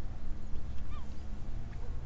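Steady low rumble, with a faint short bird call about a second in.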